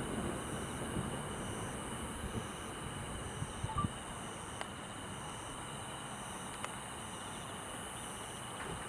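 Steady chorus of chirping insects, with one chirp pulsing about twice a second, over a low background rumble that fades in the first few seconds; a few faint clicks.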